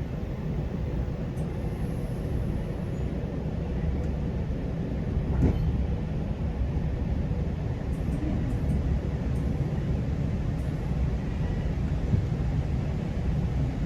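GO Transit commuter train running along the track: a steady low rumble of wheels on rail, with a single sharp knock about five seconds in.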